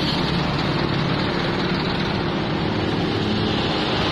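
Truck engine running steadily with a constant low hum.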